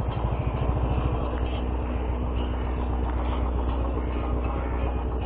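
Royal Enfield motorcycle's single-cylinder engine running steadily at low speed while the bike is ridden slowly.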